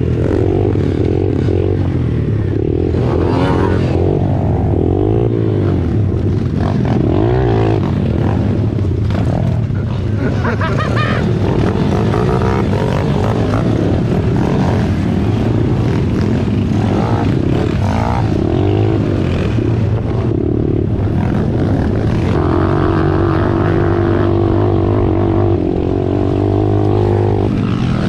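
Small four-stroke pit bike engine being ridden hard, its revs rising and falling over and over as the rider opens and shuts the throttle.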